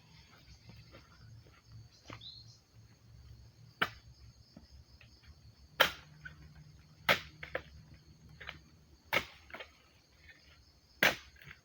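Sharp chopping knocks from oil palm harvesting work, five loud strikes about every one and a half to two seconds with fainter ones between, over a steady high insect trill.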